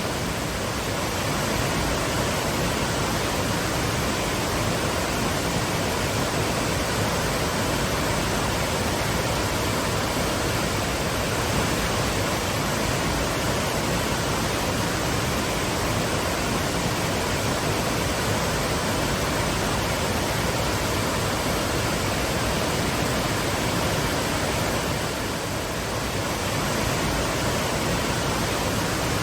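Waterfall: a steady, full rush of falling water, even throughout, with a slight dip about 25 seconds in.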